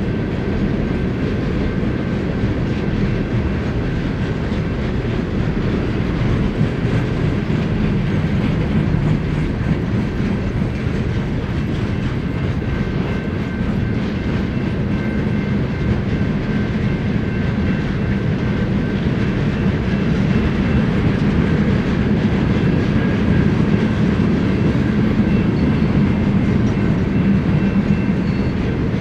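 Cars of a BNSF freight train rolling past on the rails: a steady, loud wheel-and-rail rumble with rhythmic clatter over the joints and faint thin high tones from the wheels.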